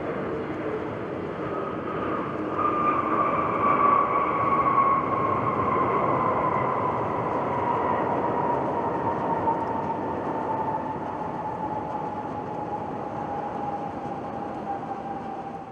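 Jet airliner taking off: a broad engine roar with a whining tone that falls slowly and steadily in pitch, loudest about four to five seconds in.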